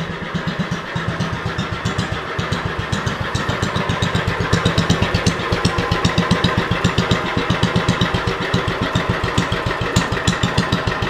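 Cast-iron Kohler engine of a Lincoln Weldanpower 150 welder-generator running steadily, with a fast, even beat of exhaust pulses.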